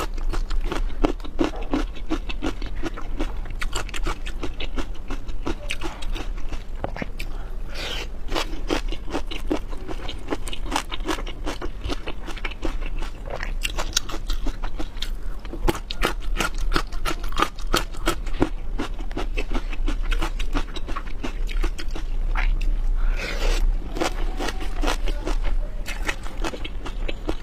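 A person chewing and biting prawns close to the microphone: a continuous run of rapid wet clicks, smacks and crunches.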